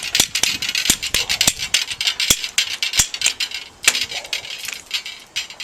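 Hand tube bender bending copper tubing: quick, irregular metallic clicks and clinks, several a second, with two sharper knocks a little past the middle.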